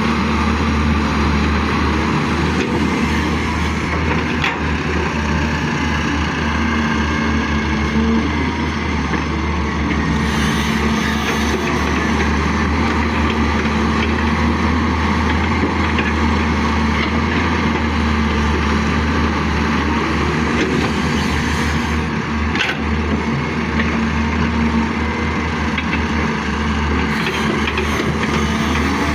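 Caterpillar excavator's diesel engine running steadily at working revs, with a couple of brief knocks along the way.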